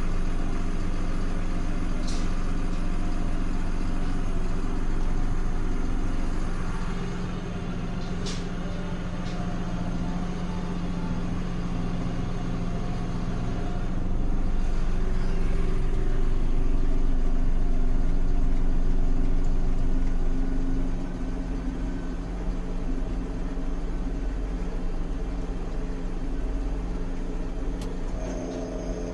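Diesel engine of a 2016 Hino 268 dump truck running steadily with the PTO engaged, driving the hydraulic pump that raises the dump bed. The running gets louder for several seconds in the middle, and two sharp clicks come in the first third.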